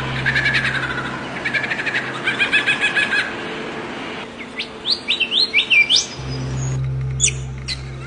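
Birds singing: a fast run of repeated chirping notes, then several quick whistled notes that each sweep upward. A low steady hum runs underneath and drops out for a couple of seconds in the middle.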